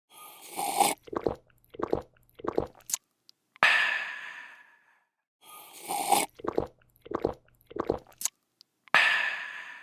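A person drinking noisily, in a repeating cycle: a short slurp, three or four quick gulps, then a breathy refreshed 'aah' that fades over about a second and a half. The cycle runs twice, with the 'aah' about a third of the way in and again near the end.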